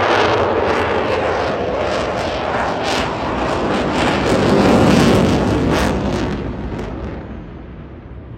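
Eurofighter Typhoon's twin EJ200 turbofan jet engines at high power: loud, rushing jet noise with a crackle running through it, fading away over the last two seconds.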